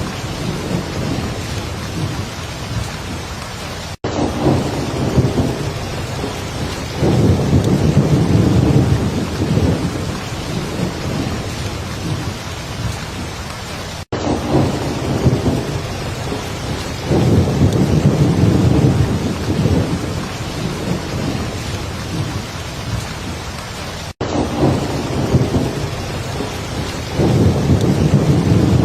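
Heavy steady rain with low rolling thunder swelling and fading in waves. The track is a loop of about ten seconds that cuts out for an instant at each seam, three times.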